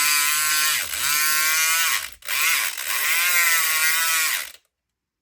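SouthOrd E500XT electric pick gun's motor buzzing as its vibrating pick works in a lock. It runs in two bursts of about two seconds each, with a brief break between them. Its pitch dips and recovers within each burst, and it stops shortly before the end.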